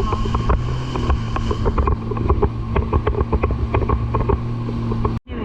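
Jet ski engine running at a steady speed, with frequent sharp knocks over the hum. The sound drops out abruptly for an instant near the end.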